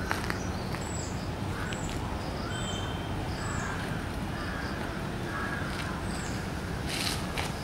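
Birds calling in the trees: short, high chirps repeating about once a second, with some harsher, lower calls in the middle, over steady low background noise. A brief hiss near the end.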